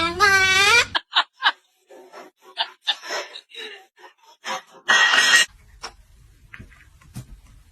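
Parrot vocalizing: a loud drawn-out call in the first second, then a run of short chirps and clicks, and a harsh squawk about five seconds in.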